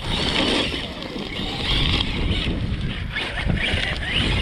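Large-scale electric RC car with a Castle 1721 1260kv brushless motor, running and surging in speed several times, its whine rising and falling, with wind rumbling on the microphone.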